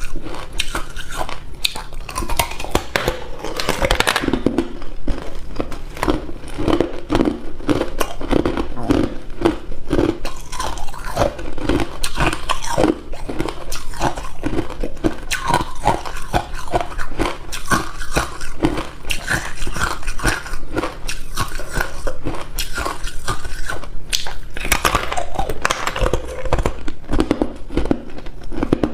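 Hard ice cubes being bitten and chewed close to the microphone: a continuous run of sharp cracking crunches at about two to three a second, with a few louder bites that break fresh cubes.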